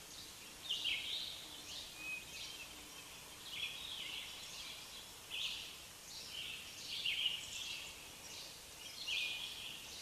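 Birds giving short, scratchy calls, about one a second and sometimes in quick pairs, over a steady background hiss.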